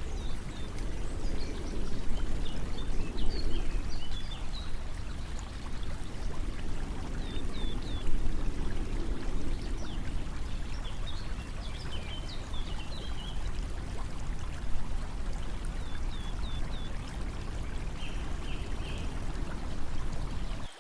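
Steady running water, like a stream, with small birds chirping now and then.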